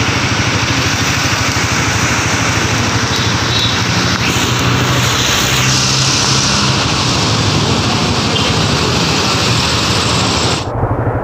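Small motorcycle engine idling steadily, the new Suzuki GSX-S150's single-cylinder, with an even fast low pulse under a steady hiss. The hiss drops away abruptly shortly before the end.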